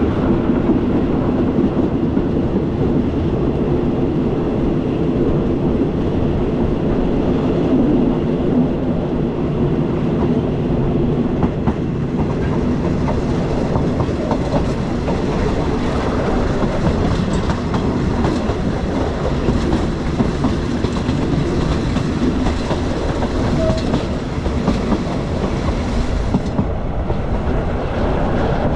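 Diesel-hauled passenger train running along the track: a steady rumble of wheels on rails with a light clickety-clack from the rail joints, and an engine hum that fades after about ten seconds.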